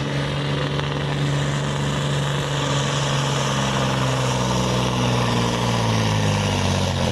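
Iveco TurboStar truck's diesel engine running steadily, a deep drone that sags slightly in pitch near the end.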